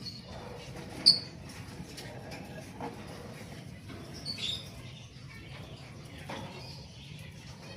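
Newly hatched bird chicks giving a few short, high squeaky peeps, spaced apart, the sharpest about a second in.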